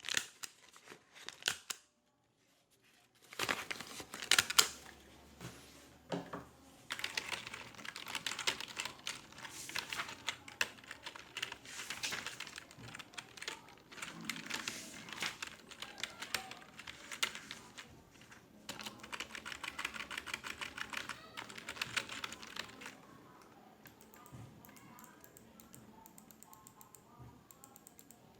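Typing on a computer keyboard: quick runs of keystrokes in spells, with a short crinkling sound at the start and a brief dropout to silence about two seconds in. The typing turns much fainter for the last few seconds.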